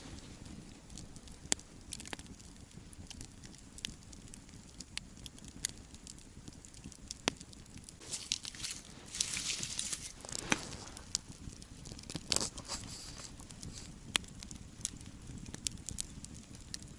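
Wood campfire burning, crackling with scattered sharp pops over a low steady rumble, and two short hissing surges about eight and twelve seconds in.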